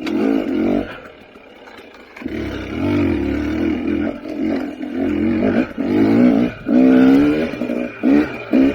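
KTM 300 XC TPI two-stroke single-cylinder dirt bike engine revving up and down in repeated bursts as the throttle is opened and closed, with a lull about a second in and the loudest blips near the end.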